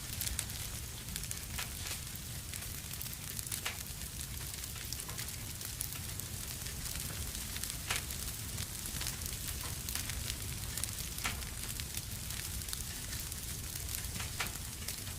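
Fire burning in a fireplace, crackling steadily, with a low rumble and a sharp pop every second or two.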